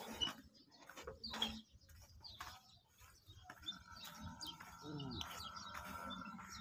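Faint chirping of small birds, with scattered soft clicks; a faint steady tone comes in about halfway through.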